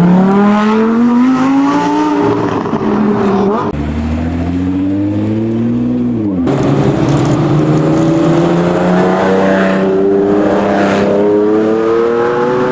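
High-performance car engine accelerating hard: its pitch climbs, falls back at a gear change about two seconds in, climbs again, drops sharply at another shift about six seconds in, then rises slowly once more.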